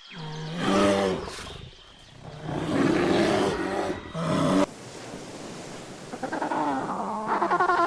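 A large wild animal calling, two long pitched roars with a short gap between them, ending abruptly. After a short pause, a chicken starts clucking near the end.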